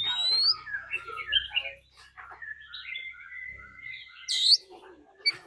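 Oriental magpie-robin singing a varied run of whistled and chattering phrases, with one long steady note in the middle and a sharp rising whistle near the end.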